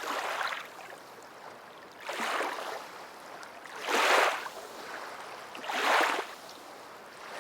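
Ocean waves washing on a shore: four soft swells about two seconds apart, the loudest about four seconds in.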